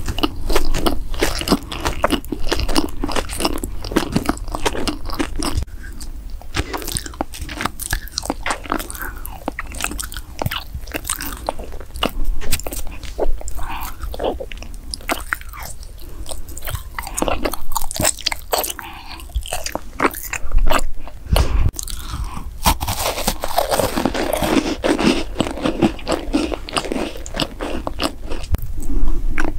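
Close-miked human eating sounds: bites into food and crunchy chewing, with many short sharp crackles one after another.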